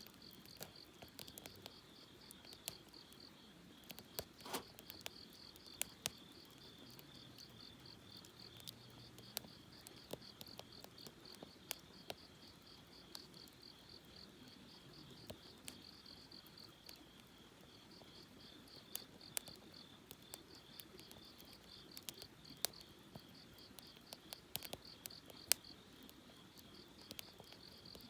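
Campfire wood crackling with scattered sharp pops, the loudest about 25 seconds in, over crickets chirping in a fast, steady pulse.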